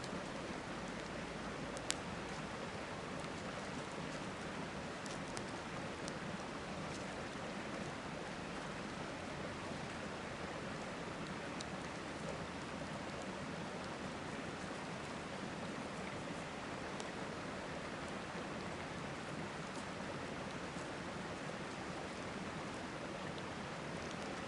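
Steady rushing of a river, with sparse sharp crackles and pops from a campfire; the loudest pop comes about two seconds in.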